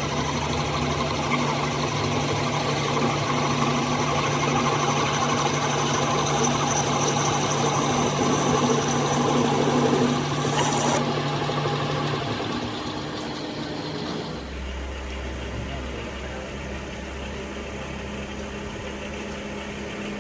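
A machine running steadily with a hum. About 11 seconds in the sound changes, and from about 14 seconds it settles into a lower, quieter hum.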